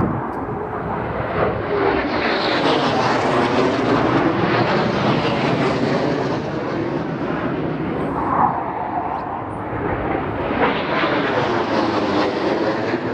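Low-flying RAF training aircraft passing low through the valley, a loud, continuous engine and air rush that sweeps in pitch and swells twice, as two aircraft go by in succession.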